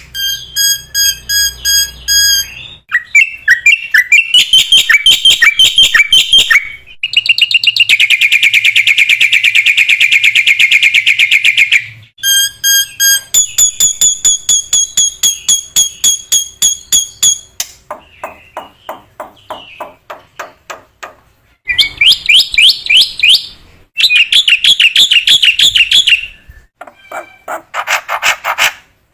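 Black-winged myna (jalak putih) singing a loud, varied run of phrases: strings of repeated whistled notes, a fast buzzy trill, rattling clicks and quick warbles, each phrase breaking off abruptly into the next every few seconds.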